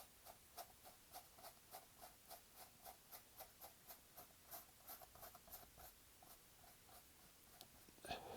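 Faint, rhythmic scratching of a paintbrush dabbing and dragging acrylic paint across canvas, about four strokes a second, slowing near the end. A single louder knock-like sound comes just before the end.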